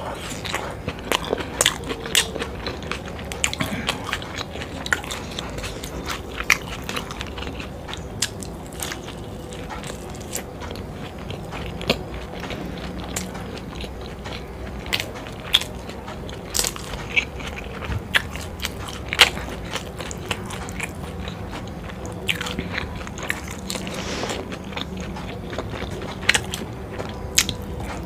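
Close-miked chewing and biting of soft momo dumplings in chilli sauce: wet, squishy mouth sounds with many sharp, irregular clicks and smacks.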